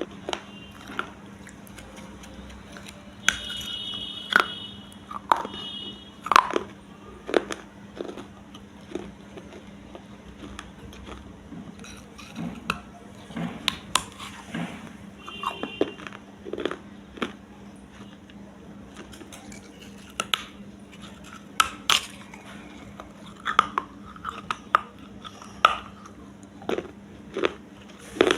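Pieces of baked clay pot being bitten and chewed, giving sharp, irregular crunches and cracks, over a faint steady hum.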